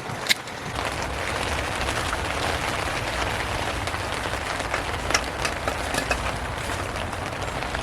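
Steady hiss of rain falling on surfaces, with a few short sharp clicks: one just after the start and a couple about five seconds in.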